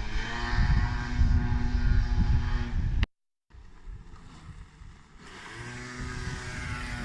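Moped engine running, cut off abruptly about three seconds in. After a brief silence a quieter engine sound comes back and builds up.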